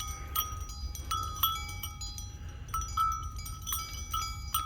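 Small metal bells clinking and ringing irregularly, several strikes a second at a few fixed pitches, over a low rumble.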